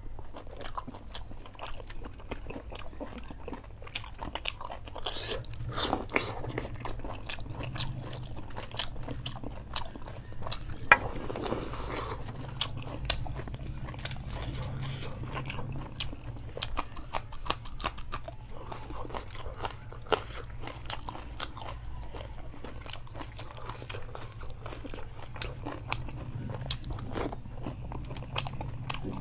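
Close-miked chewing and biting of chicken curry eaten by hand: wet mouth sounds with frequent small crunches, and two sharper cracks about halfway through.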